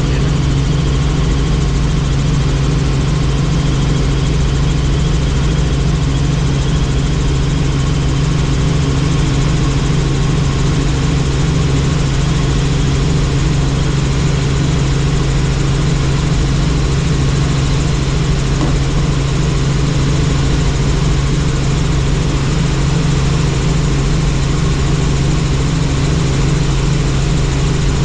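Helicopter engine and rotor running steadily, a loud constant drone with no change in pitch or level.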